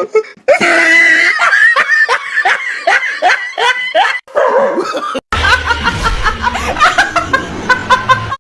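A person laughing hard in quick, repeated bursts. About five seconds in there is an abrupt cut to more laughter over a low, steady background noise.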